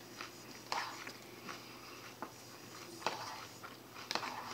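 Chewing a mouthful of salad close to the microphone: scattered short crunches and clicks, about one a second, with soft mouth sounds between.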